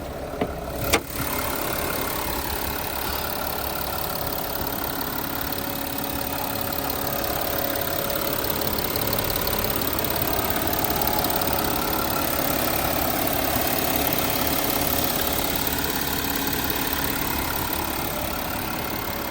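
2015 Audi Q7 engine starting about a second in, with a short sharp click, then idling steadily.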